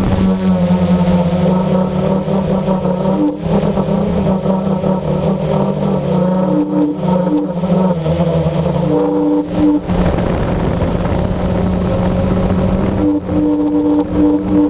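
Blade 350QX quadcopter's electric motors and propellers running with a steady multi-tone hum, the pitch dropping slightly and then rising again about ten seconds in as the motors change speed.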